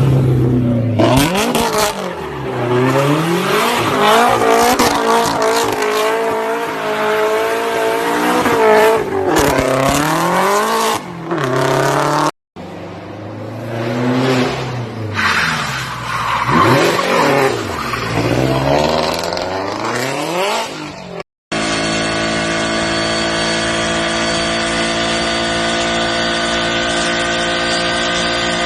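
Car engines revving hard in two short clips, the pitch climbing and falling again and again. After a cut, a steady drone of several held tones that doesn't change in pitch.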